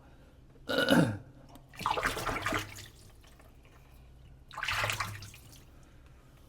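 Water splashing in three short bursts, about a second in, two seconds in and near five seconds in, during a wet shave.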